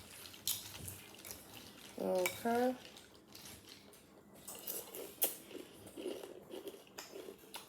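Metal spoon clinking and scraping against a cereal bowl of cereal and milk, in a scatter of short irregular clicks.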